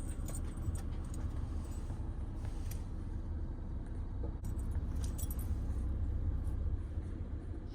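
A vehicle engine running with a steady low rumble, with scattered light clicks and jingles over it.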